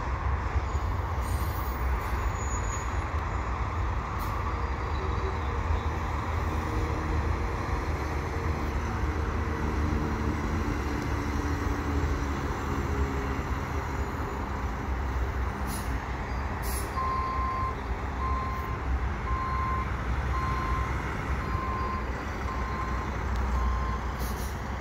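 Freight train of autorack cars rolling slowly past with a steady low rumble, slowing for the yard. In the second half a truck's reversing alarm beeps at one pitch, about seven times, roughly once a second.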